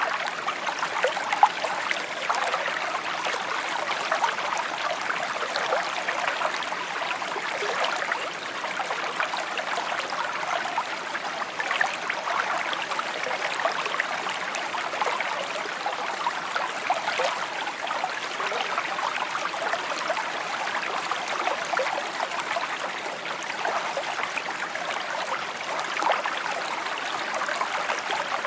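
Small stream flowing steadily over stones, a continuous babbling and trickling with many small splashes.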